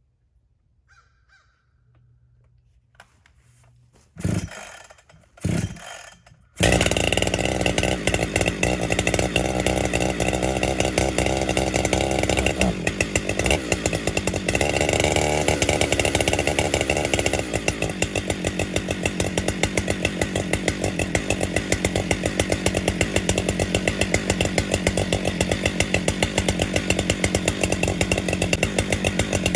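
Two short knocks, then a large two-stroke chainsaw, a Husqvarna 592XP on an Alaskan chainsaw mill, starts about six and a half seconds in. It then runs loud and steady at high revs, ripping a slab off a log.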